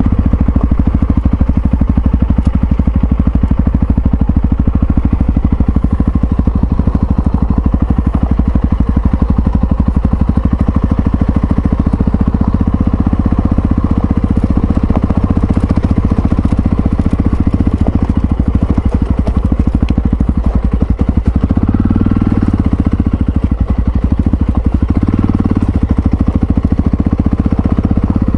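Yamaha XT660Z Ténéré's single-cylinder four-stroke engine running steadily, loud and close, with rapid even firing pulses.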